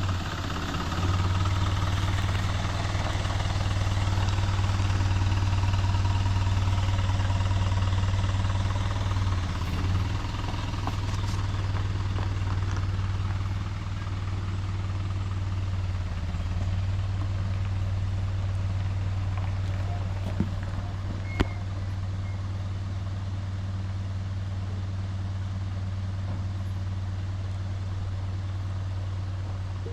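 Vacuum truck's engine running with a steady low hum, a little louder for the first ten seconds and easing somewhat after. A single sharp click comes about 21 seconds in.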